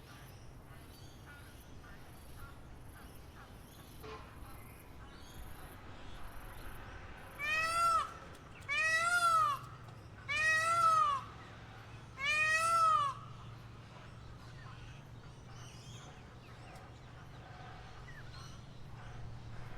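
Four loud, meow-like calls about a second or two apart, each rising and then falling in pitch, over faint scattered bird chirping.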